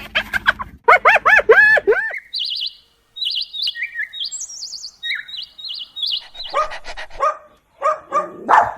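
A songbird singing short, high trilled phrases through the middle, between quick pitched animal calls at the start and near the end.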